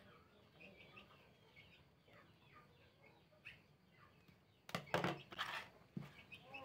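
Faint birds chirping in the background, short high calls repeated over several seconds. A louder, sudden sound lasting under a second breaks in about five seconds in.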